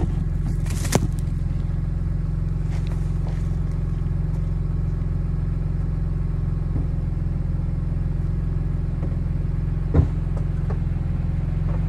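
BMW E46 M3's 3.2-litre straight-six idling steadily through its near-stock exhaust with an AC Schnitzer rear muffler. There are two brief knocks, about a second in and near the end.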